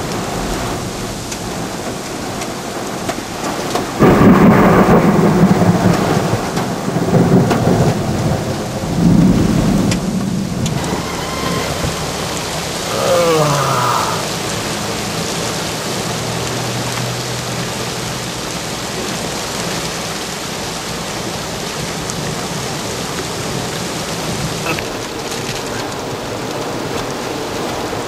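Torrential rain pouring onto standing water and pavement as a steady hiss, with a sudden loud clap of thunder about four seconds in that rumbles on for several seconds.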